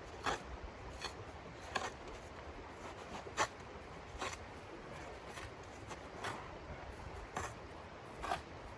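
A series of short scraping or rustling strokes, roughly one a second, over a low steady rumble.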